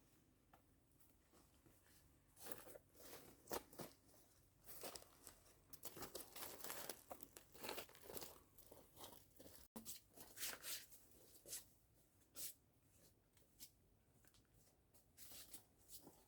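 Irregular rustling and crinkling of some material being handled, in uneven clusters of crackles with sharper tearing-like moments.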